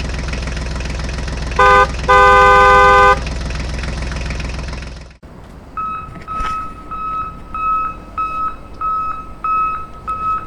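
A vehicle engine running steadily with its horn sounding twice, a short toot then a longer blast. The engine stops about five seconds in, and a steady electronic beeping follows, about two beeps a second, like a reversing alarm.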